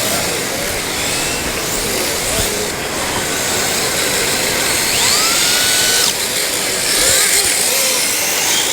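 High-pitched electric motor whine of radio-controlled cars running, with short squeaks of their tyres on the floor, over loud, steady hall noise.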